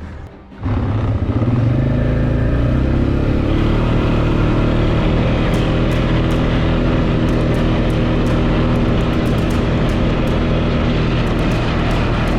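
ATV engine pulling away, its pitch rising for a couple of seconds, then running steadily as the ATV rides along a dirt trail, with scattered faint clicks.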